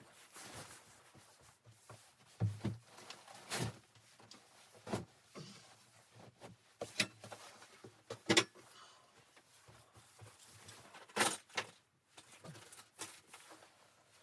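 Irregular sharp knocks, clicks and clunks, as of things being handled in a small room, over a faint hiss.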